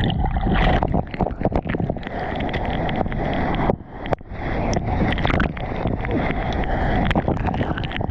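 Wind buffeting the microphone over the wash of the sea, with scattered crackles and knocks of splashing water; it dips briefly about four seconds in.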